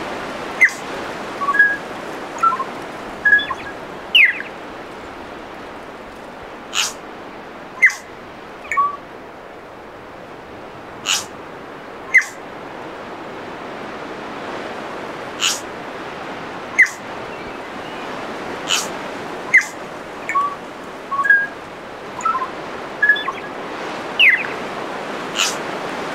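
Birds calling: short, sharp high notes every second or two, mixed with small whistled notes, over a steady rushing hiss.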